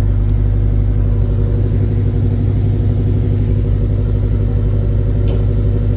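A V8 muscle-car engine running steadily close by, a loud low pulsing note that holds the same pitch without revving up, with one brief click near the end.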